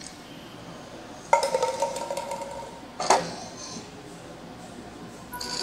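A sharp metallic clank that rings on for over a second, followed about two seconds later by a second, shorter knock.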